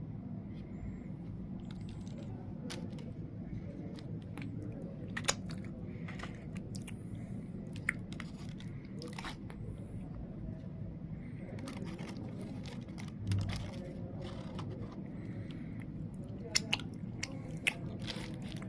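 Close-up eating sounds: a beef, carrot and onion wrap being bitten and chewed, with scattered crisp crunches over a steady low hum. A dull thump about 13 seconds in, and a run of sharper crunches near the end.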